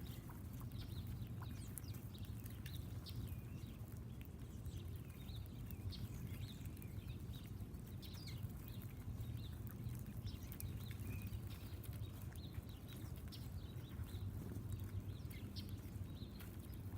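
Backyard birds chirping: many short, scattered calls, over a steady low hum.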